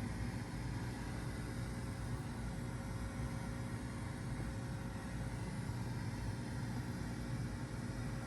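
Low, steady droning hum with hiss played back from a VHS tape: the so-called moaning sound at the end of an old recording, holding a few fixed low tones without change.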